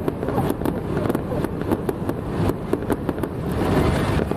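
Fireworks going off in a dense, continuous crackle of many small bangs over a low rumble.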